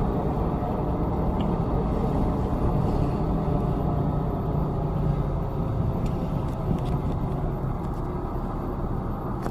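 Steady low engine rumble from motor vehicles, running evenly with no distinct knocks or changes.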